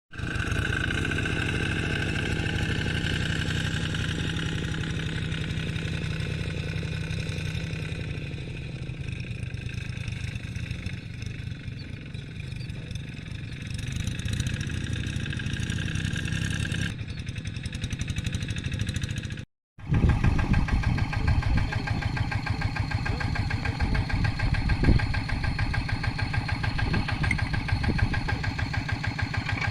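Single-cylinder diesel engine of a Quick G3000 two-wheel hand tractor running steadily. It cuts out for a moment about two-thirds of the way through and comes back louder, with a rapid regular beat.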